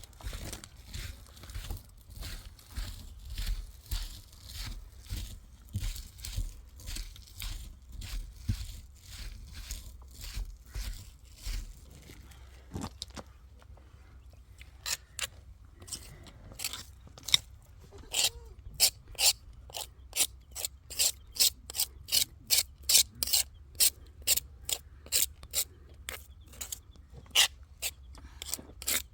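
Rhythmic scraping or rasping strokes, about two a second, with a low rumble under them at first; after a short pause about halfway through, the strokes become sharper and brighter.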